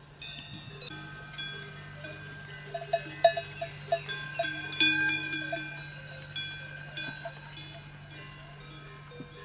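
Several small metal bells clanking and ringing irregularly at different pitches, with a busy cluster of strikes in the middle, over a steady low hum.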